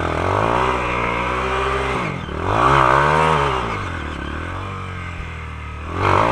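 Honda CRF230's single-cylinder four-stroke engine running. It holds steady, then revs up and back down once, settles to a lower, slower run, and revs up again near the end.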